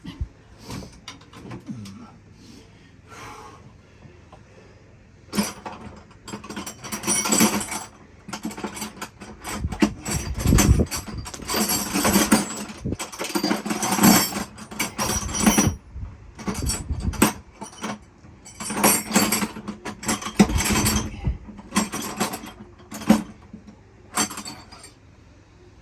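Metal hand tools clattering and rattling in irregular bursts, with a few heavier knocks among them.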